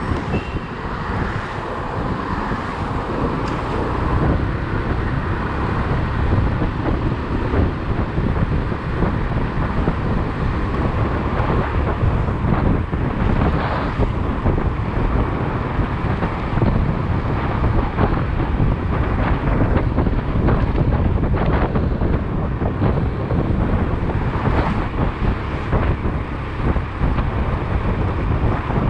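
Wind noise on the microphone of a moving motorcycle, over the motorcycle running and the road traffic around it. It is a steady, dense noise with no pauses.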